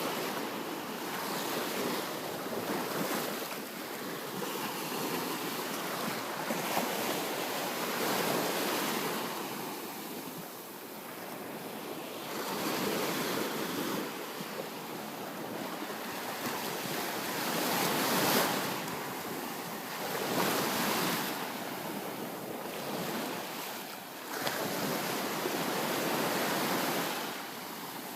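Ocean waves breaking and washing on a beach, the surf swelling and easing every few seconds, with wind buffeting the microphone.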